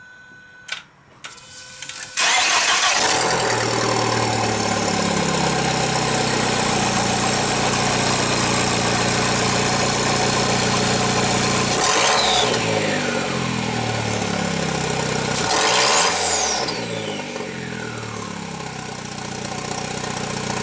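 Audi A4 B5 1.8T turbo four-cylinder started after a few clicks about two seconds in. It idles loud with its exhaust open at the turbo, where the catalytic converter has broken off at the flange. It is blipped twice, about twelve and sixteen seconds in, and each blip is followed by a high falling whine.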